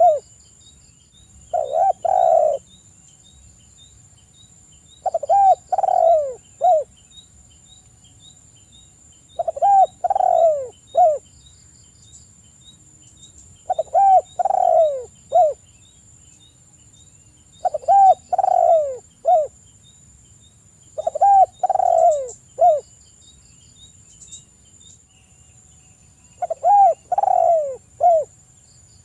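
Spotted dove cooing in repeated three-note phrases, about seven in all, each a little over a second long with pauses of a few seconds between. Behind them a steady high insect whine and faint, regular high ticking.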